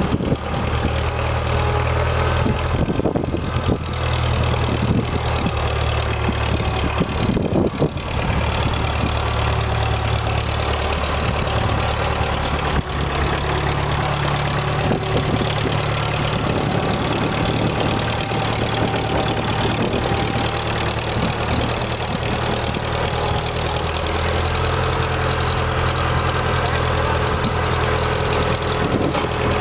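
Engine of a 1974 International Harvester 574 row-crop tractor running steadily at idle, a low continuous engine sound that shifts slightly in pitch a few times.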